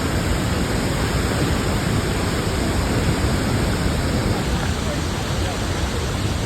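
Large waterfall with a steady, even rushing of falling water.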